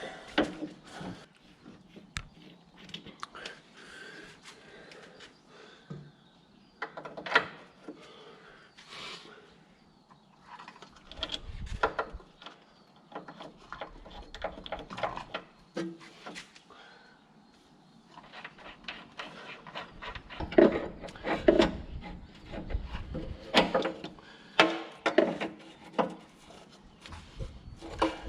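Scattered clicks, knocks and rubbing from hydraulic hoses and metal fittings being handled and fitted, growing into a denser run of heavier knocks in the last third.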